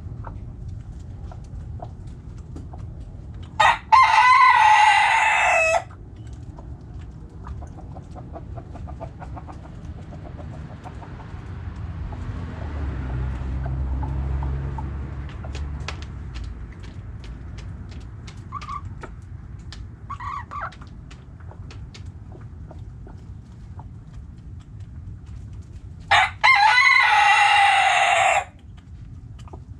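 A rooster crows twice, each crow about two seconds long, one near the start and one near the end. Between the crows, hens cluck softly and a low rumble swells and fades.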